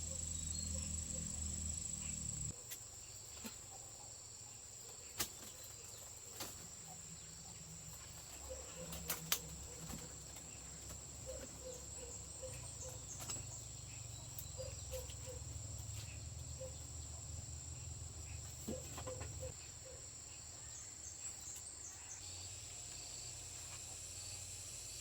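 Insects, crickets by their sound, trilling steadily at a high pitch, with a few sharp knocks, the loudest about nine seconds in. A low hum cuts off after about two and a half seconds.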